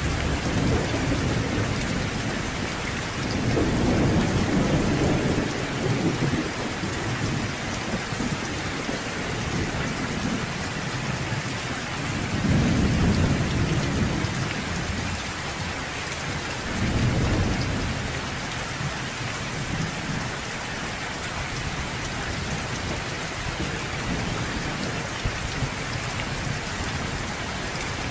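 Steady heavy rain with rolls of thunder: low rumbles swell and fade several times over the rain, the strongest about 4 and 13 seconds in.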